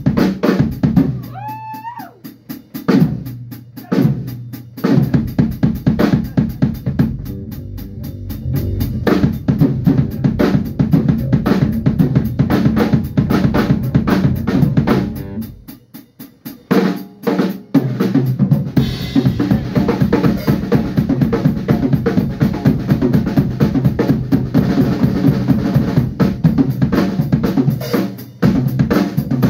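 Drum kit played in a fast, busy groove with bass drum, snare and rimshots, with a short break around the middle before the playing picks back up. A brief gliding pitched note sounds over the drums about a second and a half in.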